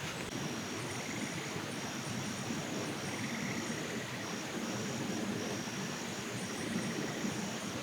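Swamp wildlife calling: a high-pitched call repeating in short, even pulses over a steady hiss, with a fainter trill lower down.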